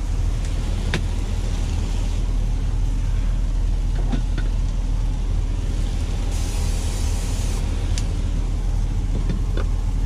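Semi-truck diesel engine idling, a steady low rumble heard inside the cab, with a few light clicks and a short hiss about six seconds in.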